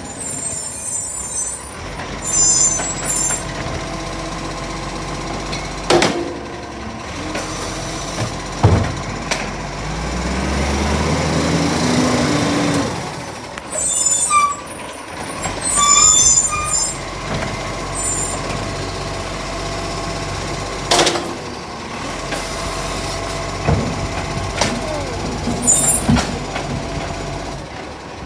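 Garbage truck on a recycling collection run: the diesel engine runs throughout and rises in pitch for a few seconds near the middle. Air brakes hiss, short high squeaks come several times, and a few sharp clunks sound.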